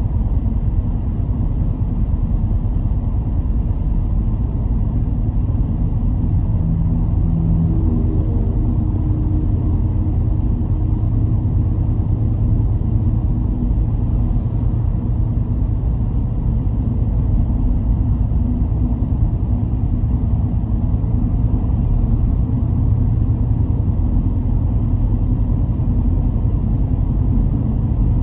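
Car driving along the road: a steady low rumble of engine and tyre noise, with the engine's pitch showing more clearly for a few seconds near the start.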